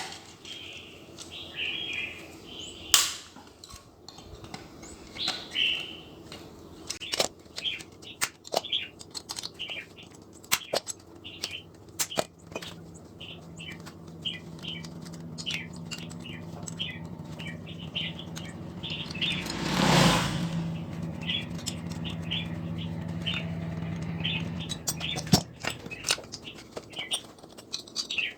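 Small birds chirping over and over, with scattered sharp clicks and knocks throughout. A low steady hum runs through the second half, with a brief loud rush of noise near its middle.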